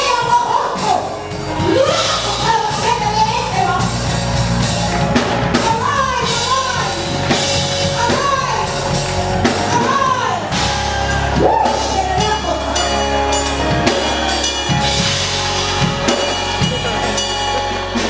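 Live gospel music: a singer's melody over a band with a drum kit and bass.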